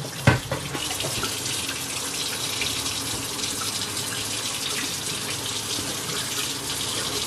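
Tap water running steadily into a sink while a child washes up, with one sharp knock just after the start.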